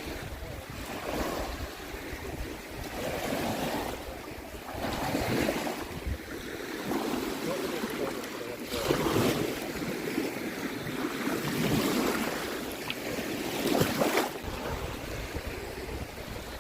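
Baltic Sea waves breaking and washing on the shore, the surf hiss swelling and fading every couple of seconds, with wind rumbling on the microphone.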